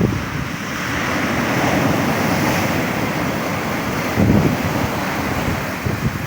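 Storm waves breaking and surf washing in a steady rush, with wind buffeting the microphone in gusts, strongest about four seconds in.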